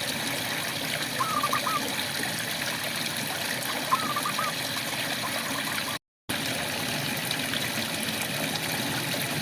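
Steady rain with frogs calling: a short run of three or four quick notes about a second in, and another about four seconds in. The sound cuts out completely for a moment about six seconds in.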